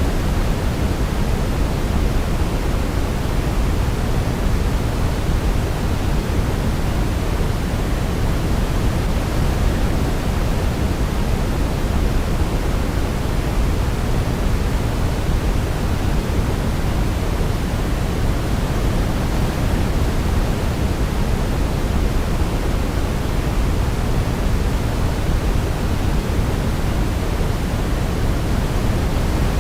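Steady, unchanging pink noise: a deep, even hiss, heaviest in the bass, with no melody.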